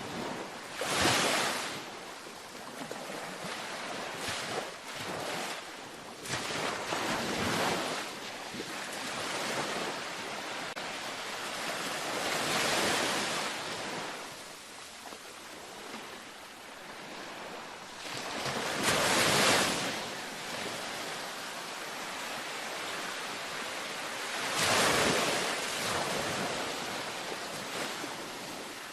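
Gentle ocean waves washing onto a beach: a steady surf wash with a louder wave breaking every six seconds or so, each swelling and fading over a second or two.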